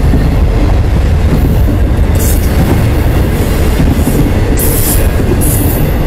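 Intermodal freight train's double-stack container and trailer cars rolling past: a steady loud rumble of steel wheels on rail, with short high hisses about two seconds in and twice near the end.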